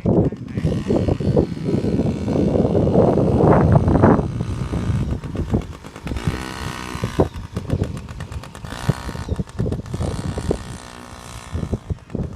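Yamaha PW50's small two-stroke engine running, its pitch rising and falling as the throttle is worked, under heavy rumbling noise with frequent sharp knocks.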